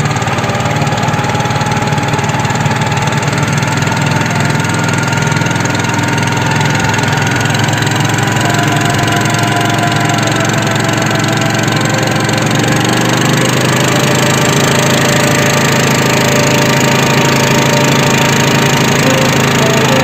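Small engine running steadily at a constant speed, with a slight change in its note about twelve seconds in.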